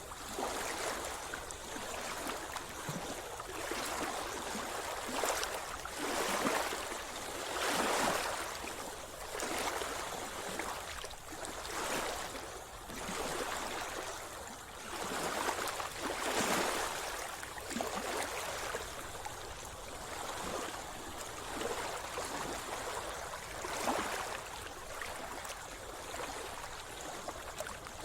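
Sea water splashing and sloshing close by, in irregular surges every second or two.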